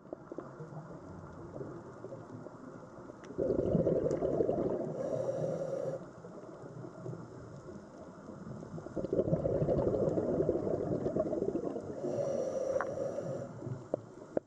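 Muffled, low rushing of the sea that swells louder twice and eases back, with a few faint clicks.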